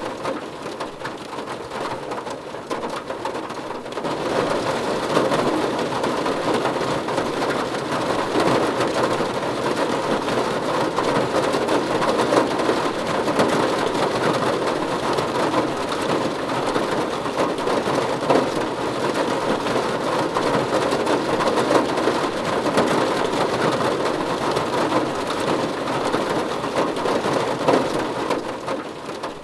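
Heavy rain falling steadily, a dense patter of drops that grows louder about four seconds in.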